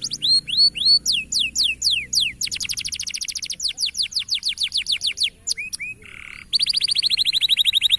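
Domestic canary singing: a rapid run of falling whistled notes and rolling trills. About six seconds in comes a short buzzy note, then a fast, even trill.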